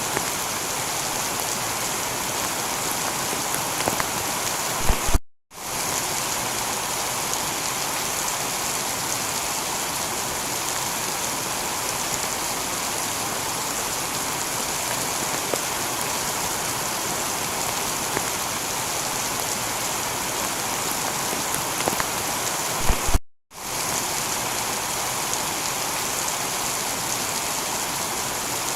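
Heavy rain falling steadily on a tiled roof. Twice, about eighteen seconds apart, there is a short low thump and then the sound cuts out for a split second before the rain resumes, as at the seam of a looped recording.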